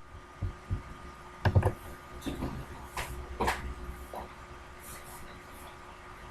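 Handling noises: a series of soft knocks and clicks, grouped in the first few seconds, over a faint steady hum.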